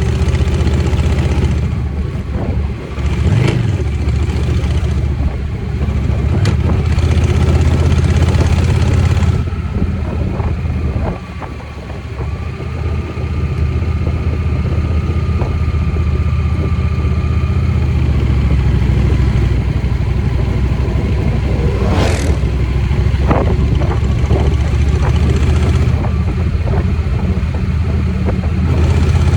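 Motorcycle engine running while riding, with a steady rush of noise over it. The engine note drops off briefly about eleven seconds in, then picks up again. A few sharp clicks come through, the clearest about two-thirds of the way through.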